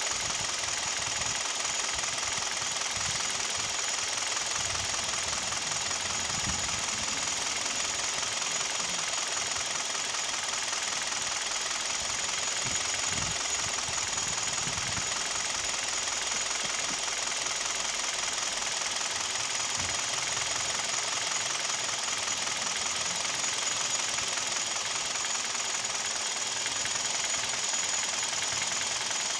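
Hyundai/Kia G4KD 2.0-litre Theta II four-cylinder petrol engine running with a steady, rapid knocking, which the owner takes for piston knock.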